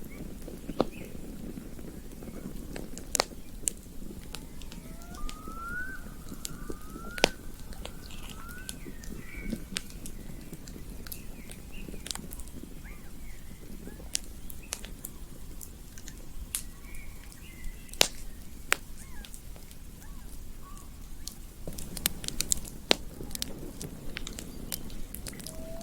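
Campfire crackling, with scattered sharp pops over a low steady rumble of flames. A few short rising whistle-like calls sound about five to eight seconds in.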